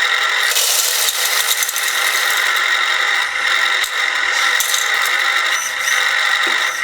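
Small electric gear motors of 1/14-scale RC construction models whining steadily, with a ratcheting mechanical clatter from the gears and moving parts that is densest near the start.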